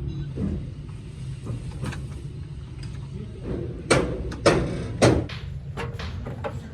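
Three sharp knocks about half a second apart, among lighter clicks, over a steady low hum.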